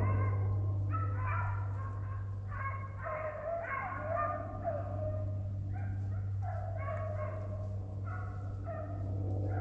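Deer-hunting hounds baying over and over, more than once a second, while running a deer's trail. A steady low hum sits underneath.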